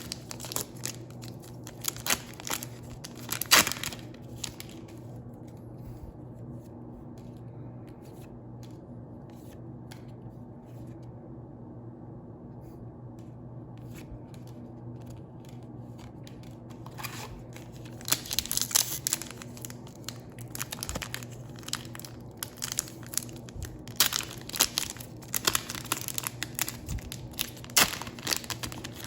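Foil Pokémon booster pack wrappers crinkling and tearing open. The crinkling comes in bursts at the start and again from about two-thirds of the way through, with a quieter stretch in between over a steady low hum.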